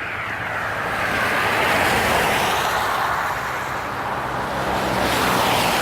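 Road traffic passing on a snowy street: a steady hiss of tyres that swells about two seconds in and again near the end, over a faint low engine hum.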